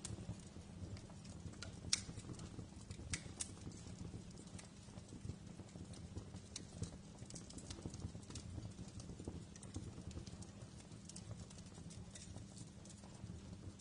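Wood fire in a fireplace crackling: irregular sharp pops and snaps over a low steady rumble, the loudest pops about two and three seconds in.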